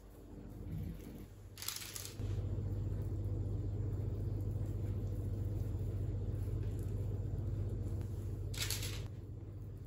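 An electric appliance's steady low hum switches on about two seconds in and drops away near the end, each change just after a short rustling clack.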